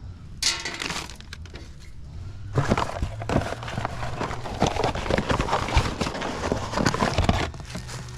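Hands rummaging through a stash of small hard parts, a rapid run of clattering and clinking with a short sharp burst about half a second in.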